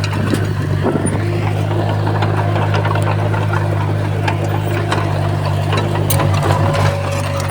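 Crawler bulldozer's diesel engine running steadily, with scattered sharp clanks and clicks over it; the engine note wavers briefly near the end.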